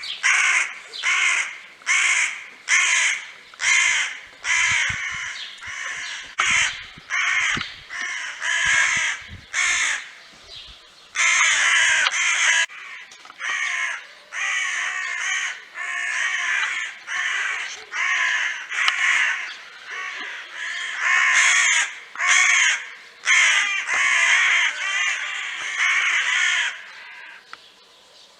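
Young kittens meowing loudly and over and over, high-pitched cries coming about once a second and running together into longer stretches now and then.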